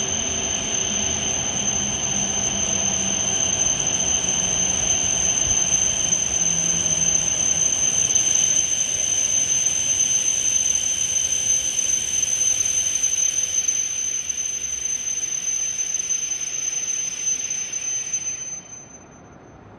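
W7-series Hokuriku Shinkansen train running into the platform and braking to a stop: a steady rush with a high whine over it. It falls away suddenly about eighteen seconds in as the train halts.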